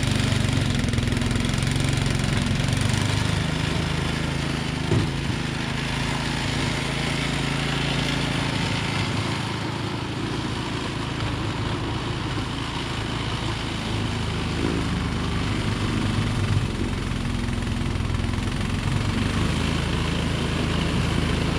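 Engine running steadily. Its low hum thins out about three seconds in and fills out again from about fourteen seconds, with one short knock about five seconds in.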